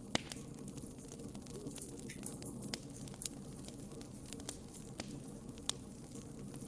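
Wood fire crackling in a fireplace: scattered sharp pops and snaps over a low, steady rumble of the flames, with a loud pop just after the start and another near the end.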